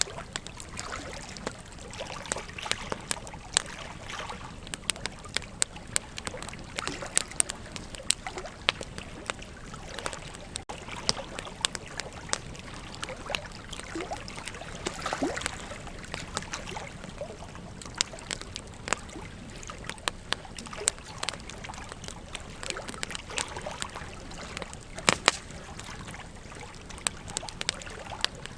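Wood campfire crackling, with frequent sharp snaps and pops over a steady rush of flowing river water; one snap about 25 seconds in is the loudest.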